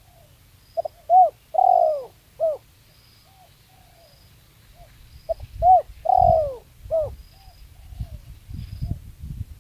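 Spotted dove cooing: two phrases of its rolling song, each a short note, a longer arched coo falling in pitch and a short closing note, the second phrase coming about four seconds after the first. This is the call used as a lure to bring wild spotted doves down.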